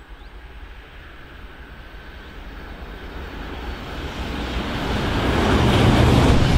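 Rhein-Ruhr-Express Siemens Desiro HC electric multiple unit approaching, its rumble and wheel-on-rail noise growing steadily louder as it nears and reaching full loudness about six seconds in.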